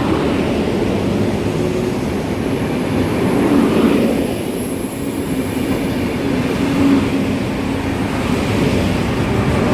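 Renfe passenger train pulling out of the station: steady running noise with a faint low tone from the train.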